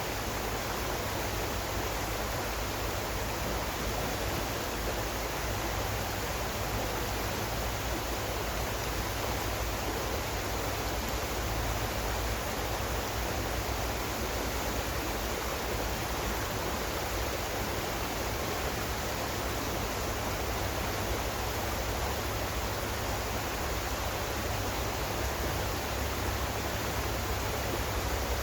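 Steady, unbroken rush of flowing water, like a stream or small waterfall, with no separate splashes.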